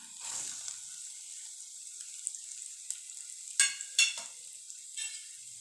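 Diced carrots tipped into hot oil with cumin and ginger-garlic paste in an aluminium kadai, sizzling steadily. A little past halfway come two sharp, ringing metal clanks against the pan, then a lighter one.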